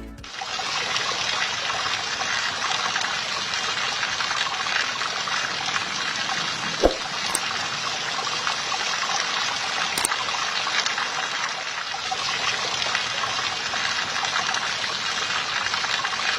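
Liquid trickling and splashing in a steady stream, pumped by a small handmade mini fuel pump, with a short knock about seven seconds in and a faint click about three seconds later.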